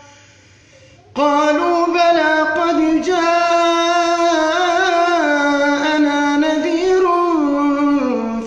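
A man's voice reciting the Quran in melodic tajweed style. After a brief pause of about a second, he holds one long, unbroken melodic line that rises and falls in pitch for about seven seconds.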